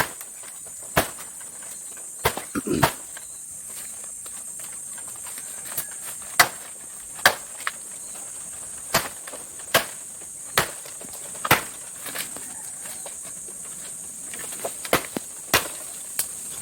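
Bamboo being chopped with a blade: sharp, separate strikes about once a second, some in quick pairs, with a few short pauses. A steady high insect buzz runs underneath.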